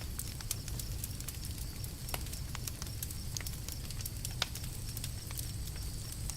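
Campfire crackling: irregular sharp pops and snaps over a steady low rumble, with a louder pop about two seconds in and another just past four seconds.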